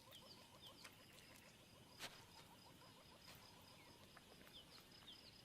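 Faint bush ambience of small repeated chirps and trills from insects and birds, with a single sharp click about two seconds in.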